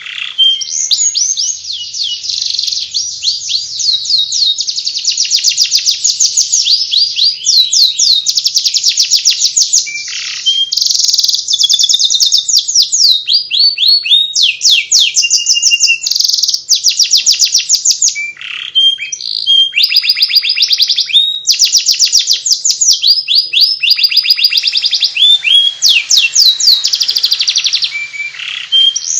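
Domestic canary singing its continuous twittering warble (ngriwik): fast trills of repeated short downward-sweeping notes, one phrase running into the next with only brief breaks.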